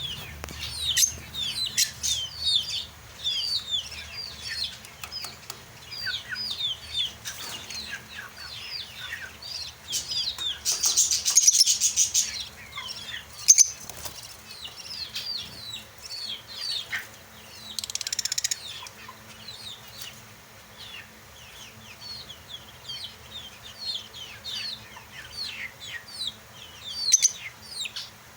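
A flock of caged lovebirds chirping nonstop in quick, high, overlapping chirps, with a couple of brief louder rustling bursts partway through.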